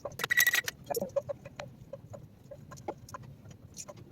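Onion going into hot olive oil in a frying pan: a short burst of sizzling, then scattered crackling pops of the oil.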